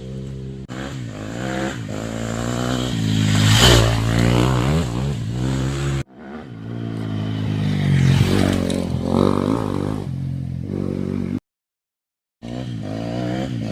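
Dirt bike engine revving, its pitch rising and falling as it rides. The sound cuts off abruptly about six seconds in and drops out to silence for about a second near the end.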